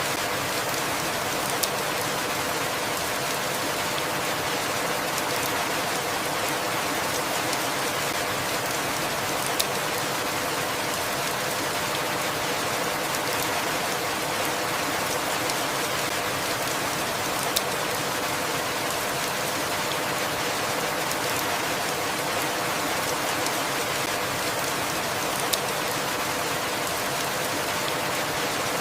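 Steady rainfall, an even hiss of drops with a few sharp drip clicks standing out now and then.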